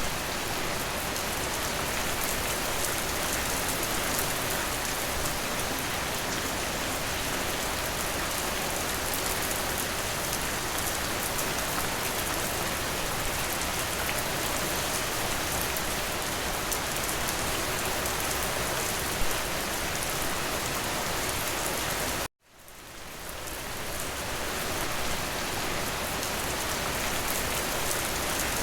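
Steady rain falling, a dense even hiss with scattered sharper drop ticks. About 22 seconds in it cuts out to silence for an instant, then fades back in.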